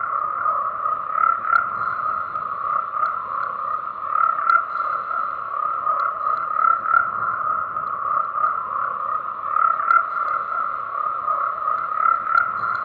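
A dense chorus of croaking frogs: many overlapping calls forming a continuous, pulsing din, with individual louder croaks standing out every second or so.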